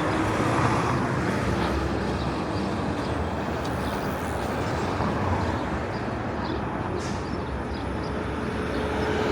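Steady rumble of motor vehicles passing on a city street, with faint ticks and rattles above it.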